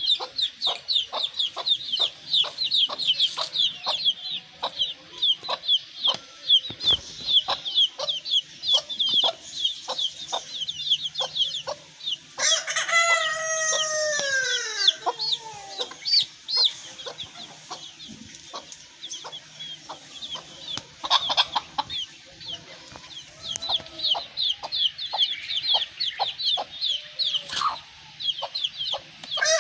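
Australorp chickens clucking under a constant rapid high chirping. A rooster crows once, a long call that falls in pitch at its end, about twelve seconds in.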